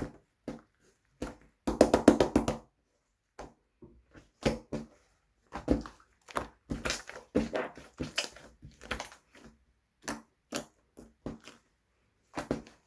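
White slime being squeezed and poked by hands, giving irregular sticky clicks and pops, with a quick run of them about two seconds in.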